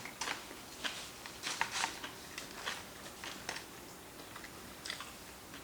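Eating sounds from black bean noodles being eaten: irregular soft clicks and smacks, several a second at times, at a low level.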